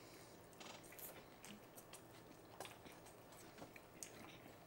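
Near silence with faint, scattered small clicks of mouths chewing fish tacos.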